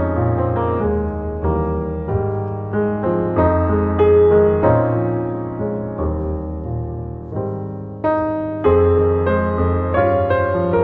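Background piano music: a gentle melody of struck notes over sustained bass notes.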